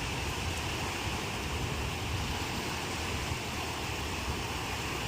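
Ocean waves breaking and washing on the shore in a steady surf, with a low rumble underneath.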